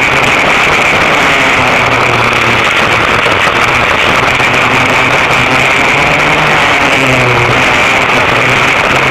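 Twin rear engines of a vintage dual-engine racing kart running hard at speed, a loud continuous buzzing drone with slight shifts in pitch.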